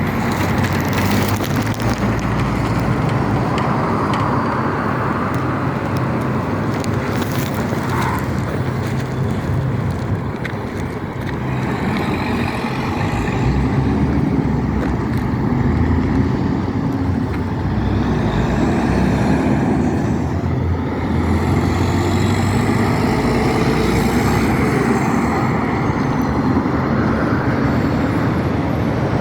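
DAF truck's diesel engine running steadily on the road, with tyre and traffic noise.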